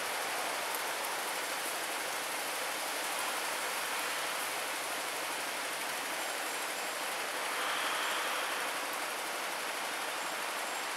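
Steady hiss of light rain falling, even throughout, swelling slightly about eight seconds in.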